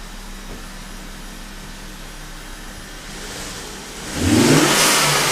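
2009 Volvo S40 T5's turbocharged 2.5-litre five-cylinder engine idling steadily, then revved hard about four seconds in, rising sharply in pitch and loudness. The engine is warmed up and running after an exhaust manifold gasket replacement.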